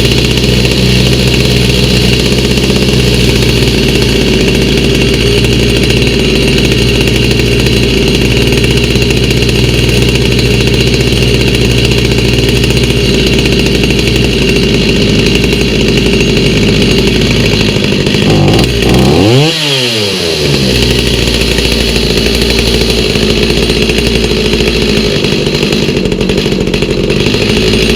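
Stihl MS290 two-stroke chainsaw engine, fitted with a replacement aftermarket carburetor, running steadily. About two-thirds of the way through, its speed drops sharply and then picks back up.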